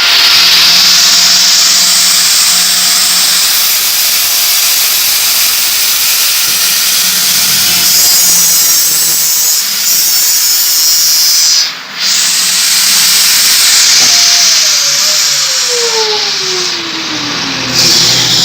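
Bosch angle grinder running with no load, just fitted with new carbon brushes, a loud steady whirring. It cuts out briefly about twelve seconds in, and a falling whine is heard over the last few seconds.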